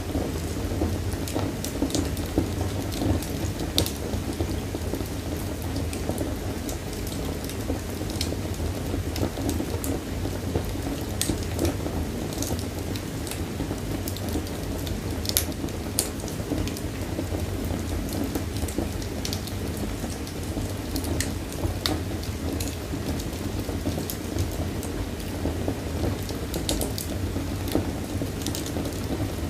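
Wood fire burning in a fireplace: a steady low rush of flames with irregular sharp crackles and pops from the burning wood.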